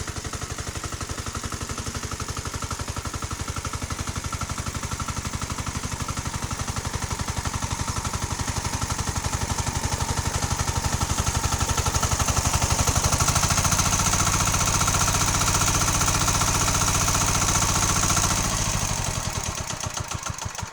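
Tractor engine running with a steady rapid pulse, growing louder in the middle, then dying away near the end.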